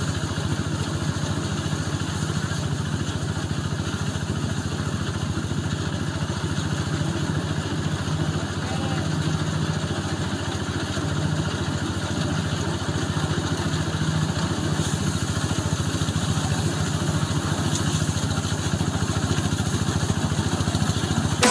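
Quick QH-11 series combine harvester running steadily, a continuous engine and machinery drone.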